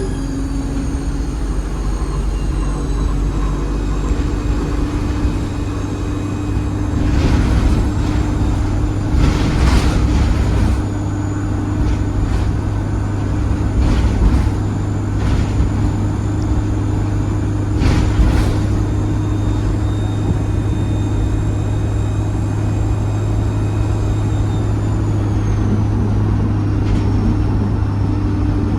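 ADL Enviro 200 bus engine running under way, heard from inside the bus, with a thin high turbo whistle that drops in pitch about two thirds of the way through. Several short knocks or rattles come through the cabin along the way.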